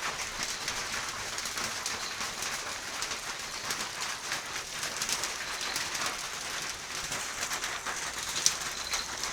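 Steady rain falling, an even hiss of many drops with scattered sharper drop ticks, one standing out near the end.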